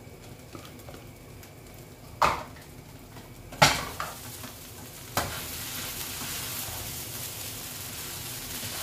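Wooden spoon stirring diced carrots, potato and minced beef frying in a pot, with three sharp knocks against the pot about two, three and a half and five seconds in, the middle one the loudest. After the third knock the sizzle turns into a steady, louder hiss.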